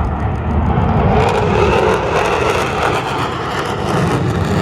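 Loud engine noise of aircraft flying past, a dense steady rush that swells a little about a second in.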